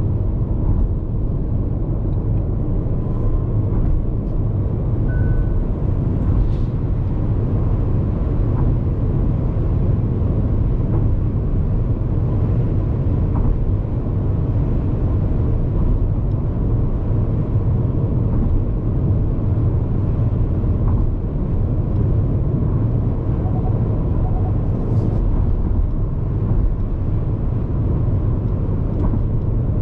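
Road noise inside the cabin of a Hyundai IONIQ 5 AWD electric car cruising at expressway speed: a steady low tyre rumble.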